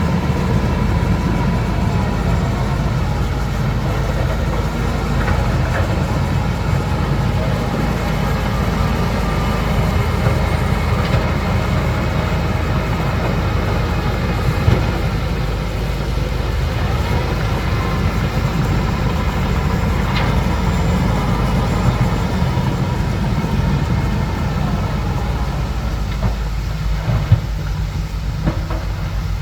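Bulldozer's diesel engine running steadily under work, with faint squeals and the occasional sharp knock, a loud one near the end.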